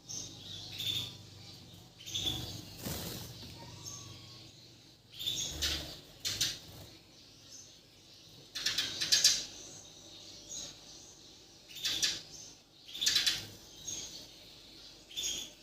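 Bornean murai batu (white-rumped shama) singing in short, separate bursts of clear, high phrases, a few seconds apart with quiet pauses between.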